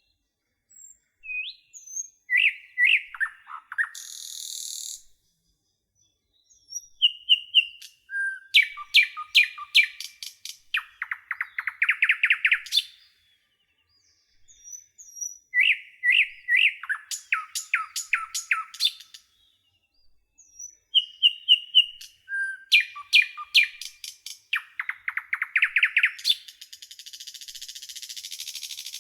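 A songbird singing the same song phrase over and over, about three times, with short pauses between. Each phrase is a few seconds of quick ticking notes running into a fast trill. A high, hissy buzz comes briefly about 4 seconds in and again near the end.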